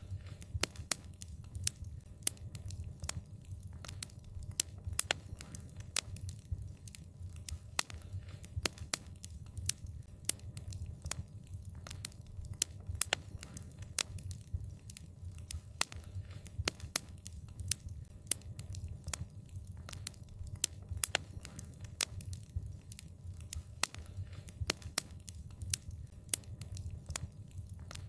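Wood fire crackling: many irregular sharp pops and snaps, several a second, over a steady low rumble.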